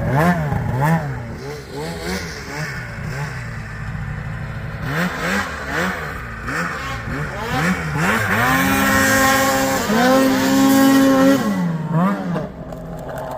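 Snowmobile engine revved up and down in quick, repeated throttle blips. It is then held at high revs for about three seconds before dropping back near the end.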